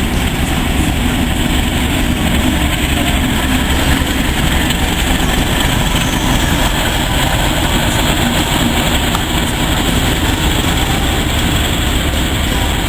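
Steady rumble of a train running on the line.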